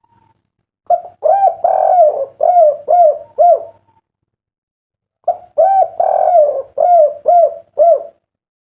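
Spotted dove (derkuku) cooing, a bird of the 'kuk 3' song type: two loud phrases of quick, arched coos, the first starting about a second in and the second about halfway through.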